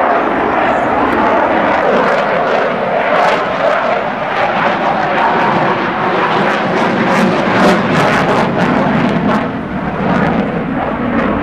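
A military display aircraft flying past, its loud engine noise running steadily with a crackling edge.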